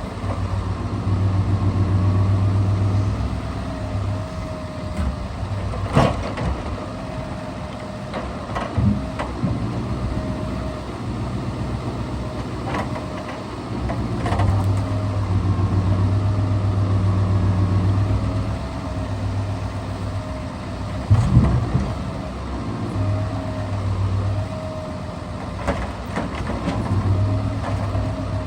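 Scania R650's V8 truck engine running to drive the hydraulics of a timber crane. The engine note swells and eases every few seconds as the crane works. There are a few sharp knocks of timber being handled, with a cluster about three quarters of the way through.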